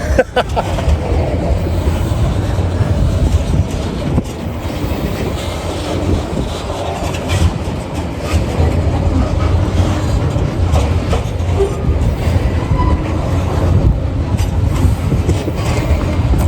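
Freight train wagons rolling past on the rails: a steady, loud rumble with occasional sharp clicks and knocks from the wheels.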